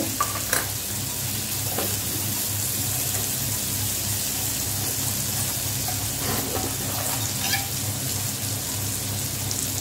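Chopped green chillies sizzling in melted butter in a nonstick kadhai, a steady frying hiss with a few faint crackles, over a low steady hum.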